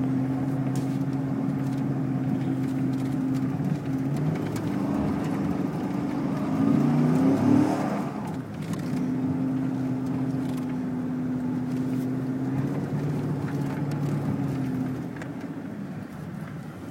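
Small snowplow truck's engine running steadily, pulling harder and louder for a couple of seconds about halfway through, then settling back to a steady drone.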